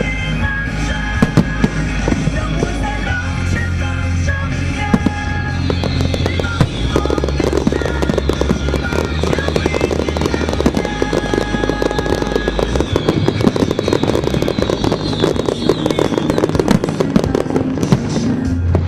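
Aerial fireworks bursting and crackling in quick succession over music with a steady bass line. From about six seconds in, the crackling becomes dense and continuous.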